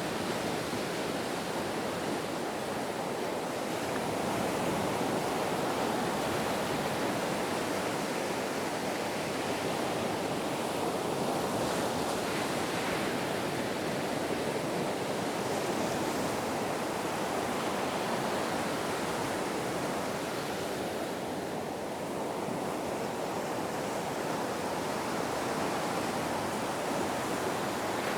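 Ocean waves washing in a continuous surf, swelling and easing gently with a slight lull about three-quarters of the way through.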